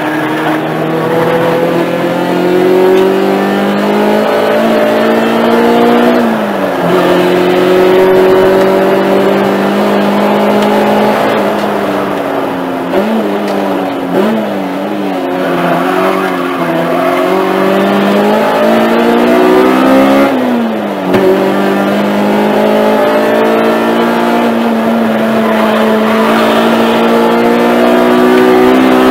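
Honda track car's engine heard from inside the cabin under hard acceleration, its pitch climbing through the revs and dropping at upshifts about six and a half and twenty seconds in. Between about twelve and sixteen seconds the pitch wavers up and down as it slows and downshifts for corners.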